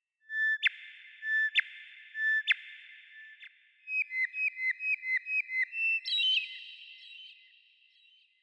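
Bird song of clear, pure whistled notes with a long echoing tail: three separate notes, then a quick run of about ten notes, about five a second, ending on a higher note.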